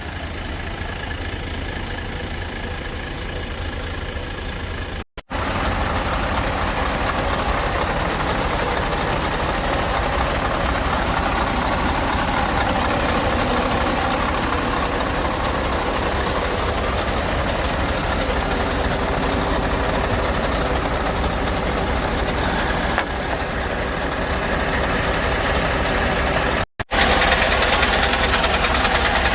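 Scania R580 truck's 16-litre V8 diesel idling steadily, with no revving. The sound breaks off briefly twice where the recording is cut, and is a little louder and brighter after the second break.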